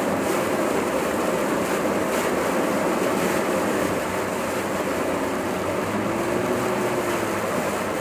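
A car driving through typhoon rain and wind, heard from inside the cabin: a steady rush of tyres on a wet road and rain on the car, with the engine underneath.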